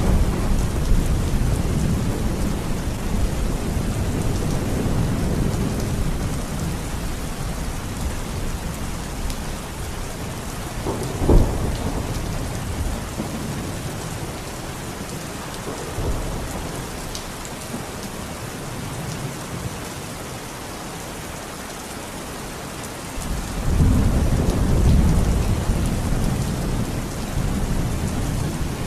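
Heavy rain falling steadily, with thunder: a rumble dies away over the first several seconds, a sharp thunderclap cracks about eleven seconds in, and another loud rumble rolls in near the end.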